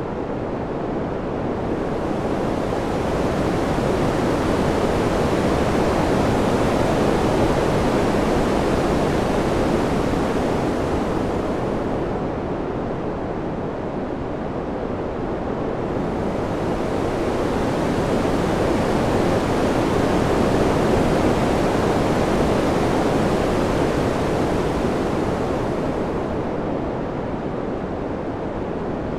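Ambient wind sound: a steady rushing noise that swells and eases in slow, even waves, about twice over, its hiss brightening at each peak.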